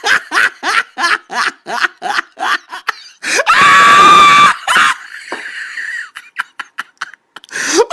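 A person laughing in quick, even bursts for about three seconds, then a loud scream lasting about a second, followed by fainter scattered noises.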